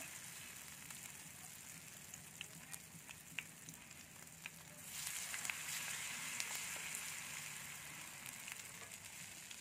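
Battered cá linh (small mud carp) frying in hot oil in a pan: a steady sizzle with scattered small pops, growing louder about five seconds in.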